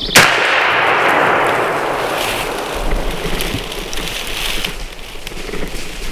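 A single 20-gauge shotgun shot at a turkey about a fifth of a second in, its report rolling away over the next couple of seconds. Scattered thumps and rustling follow.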